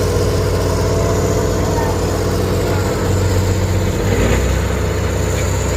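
Heavy off-road trial truck's engine running steadily under load, its low note shifting about four seconds in.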